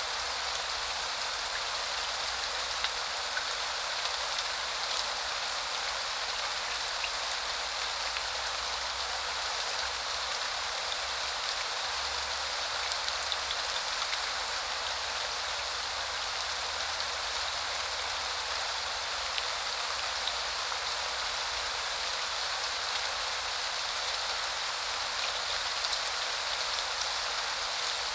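Steady spring rain: an even hiss of many drops falling on surfaces, with a few sharper drip ticks here and there.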